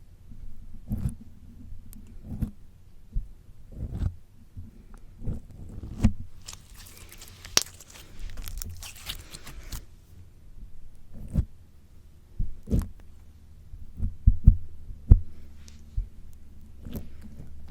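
Slime squished and pulled against a microphone: irregular low thumps with sticky pops and crackles, thickest in a stretch about halfway through.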